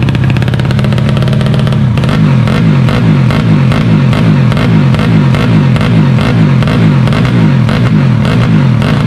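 A 130cc motorcycle engine running loud, steady for about two seconds and then wavering in pitch as it is revved.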